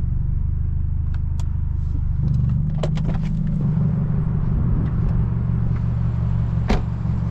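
Straight-piped BMW F30's exhaust droning at low speed, heard from inside the cabin. The engine note rises briefly about two seconds in, and there are a few short sharp clicks.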